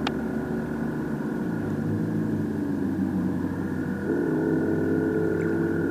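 A motor vehicle's engine running steadily, its pitch shifting about a second and a half in and again about four seconds in. A steady high-pitched tone runs underneath, and there is a sharp click at the very start.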